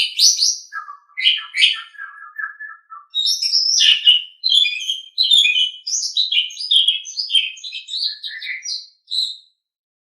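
Asian pied starling (jalak suren) singing a varied song of short, quick notes, with a lower run of notes about a second in. The song stops near the end.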